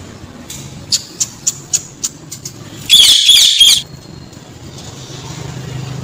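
A few light clicks, then about three seconds in a single shrill, harsh cage-bird call lasting just under a second.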